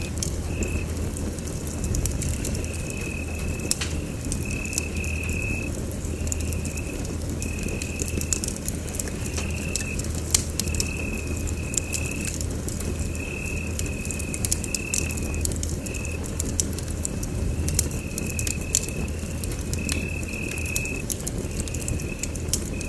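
Wood fire crackling in a fireplace: many sharp pops and crackles over a low steady rumble, with a high chirp repeating about once a second.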